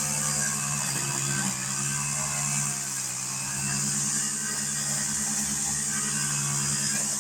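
Mower engine running steadily while cutting tall, tough pasture grass, its pitch dipping briefly about a second in and again near three seconds.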